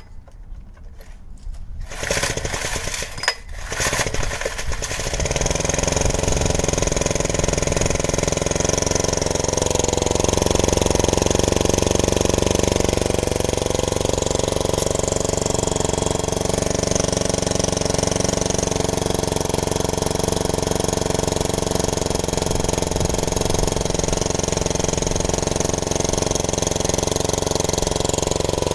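Small four-stroke engine of a 1960s Honda E40 generator starting about two seconds in, running unevenly for a few seconds, then settling into steady running.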